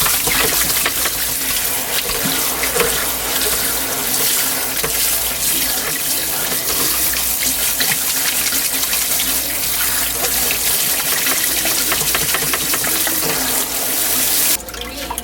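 Water running steadily from a tap into a sink, cut off near the end.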